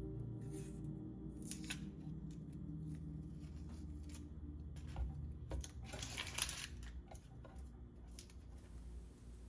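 Chef's knife cutting vegetables on a cutting board: a handful of separate slicing strokes, with a short cluster of cuts a little past the middle.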